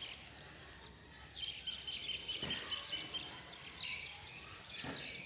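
Small birds chirping in the background, with a quick run of high, repeated chirps from about one and a half to three seconds in. Two brief knocks are heard, one about halfway through and one near the end.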